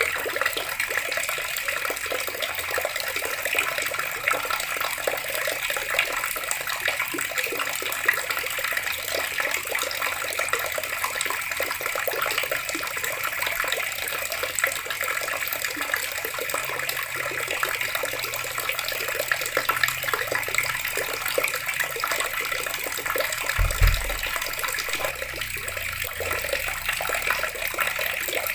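Water running steadily from a tap, a continuous splashing stream. A brief low thump about 24 seconds in.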